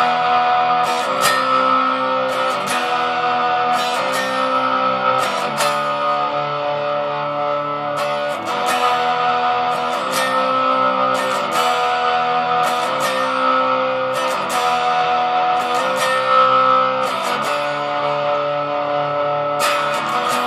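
Gibson Les Paul electric guitar played through a plain distortion channel with no other effects: picked, sustained distorted chords in a progression, the chord changing every second or two.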